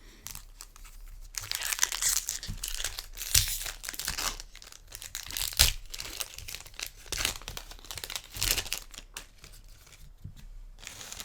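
A booster pack's plastic-foil wrapper being torn open and crinkled, a dense run of crackling that starts about a second in and tails off near the end.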